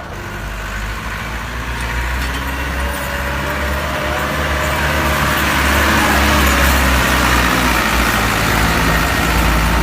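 Massey Ferguson tractor's diesel engine running steadily, growing louder through the stretch.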